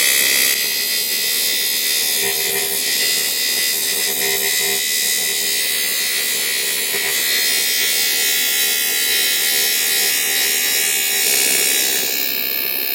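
TIG welding arc on thin aluminium, a steady loud buzzing hiss, running a continuous bead that joins an aluminium patch plate into a holed go-kart crankcase. The arc is on AC, as usual for aluminium, and cuts off right at the end as the welder stops before the thin wall melts through.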